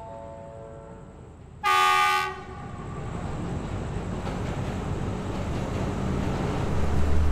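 Passenger train pulling into the platform behind a diesel locomotive: one horn blast about a second and a half in, then the rumble and rattle of the locomotive and carriages growing steadily louder as they pass close by. A short descending run of tones sounds at the start, before the horn.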